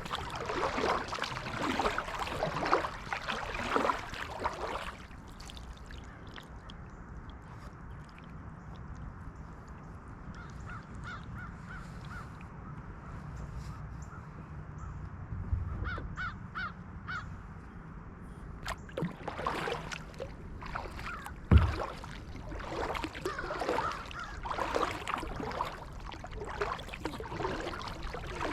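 Kayak paddle strokes splashing and dripping in the water, then a quiet pause in which a bird calls in two short runs of repeated notes. Paddling resumes, with one sharp knock in the middle of it.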